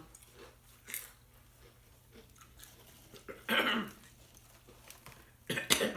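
Chewing and biting into crunchy chips, with a faint crunch about a second in and two louder crunches later on.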